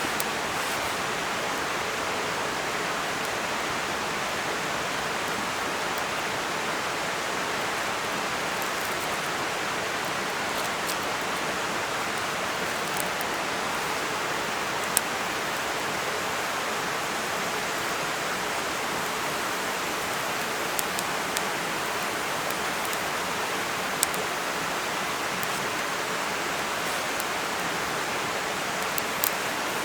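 Steady, even hiss with a few sharp clicks, one about halfway and a couple near the end.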